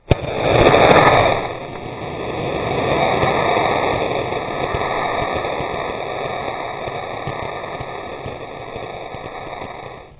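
Model rocket motor igniting and lifting off: a sudden loud whoosh that peaks about a second in and dies down by about a second and a half. A steady rushing noise follows and cuts off abruptly near the end.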